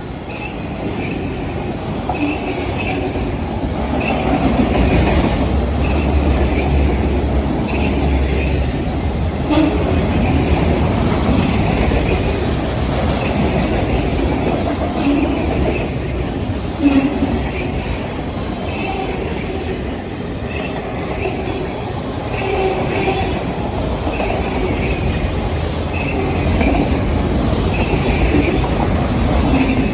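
Freight train of autorack cars rolling past, with a steady rumble of wheels on rail and a regular clickety-clack as the car wheels cross rail joints. A single sharp knock comes about halfway through.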